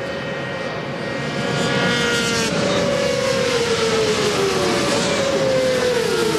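Several 400 cc supersport racing motorcycle engines running at high revs together, their pitches overlapping and drifting slowly down; the sound grows louder about a second and a half in.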